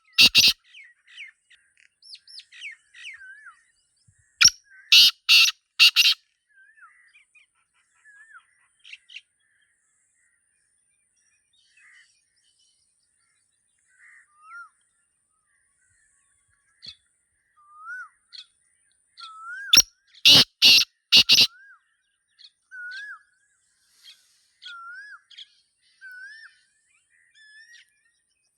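Black francolin calling twice, each call a loud burst of about four harsh, grating notes, one about five seconds in and one about twenty seconds in. Smaller birds give short, curling chirps throughout.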